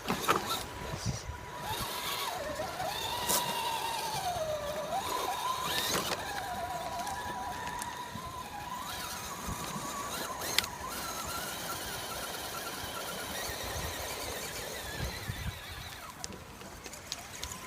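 Scale RC rock crawler's electric motor and gears whining, the pitch rising and falling with the throttle, with a few sharp clicks and knocks.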